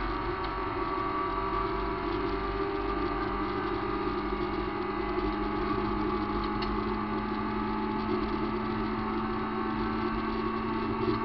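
VW Gol rally car's engine heard from inside the cabin, running at nearly steady revs under load, over road noise from the dirt road.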